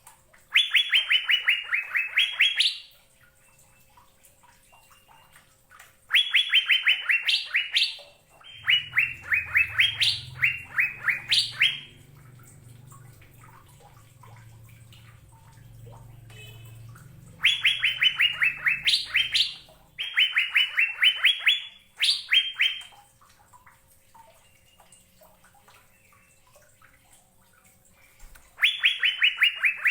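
Cucak biru (Asian fairy-bluebird) singing: repeated phrases of about two seconds, each a fast run of clear, evenly spaced notes that dips slightly and then rises at the end, with pauses of a few seconds between phrases.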